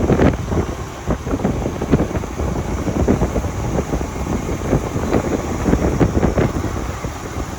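Wind buffeting a microphone on a moving motorcycle, a continuous low rumbling roar with irregular flutter, with the bike's running noise underneath.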